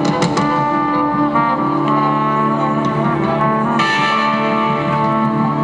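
Live band music: the instrumental introduction of a folk-rock song, with long held notes that change every second or two.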